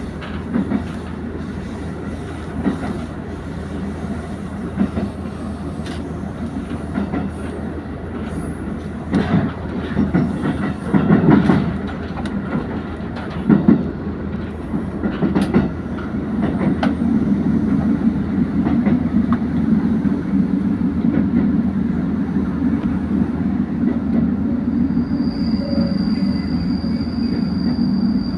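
Diesel train heard from inside the car as it runs in toward a station. The wheels click and knock over rail joints and points, then the low hum of the running gear and engine grows steady and louder about halfway through. A thin, steady high tone comes in near the end.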